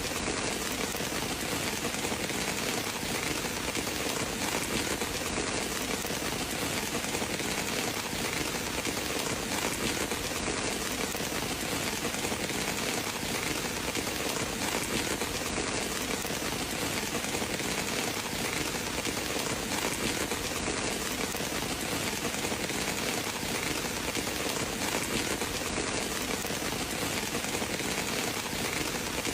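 Steady rain falling, an even hiss with no break or change in strength.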